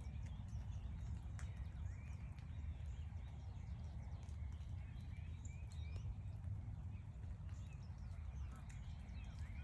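Songbirds chirping and calling in woodland, many short chirps scattered throughout, over a steady low rumble, with a few light clicks.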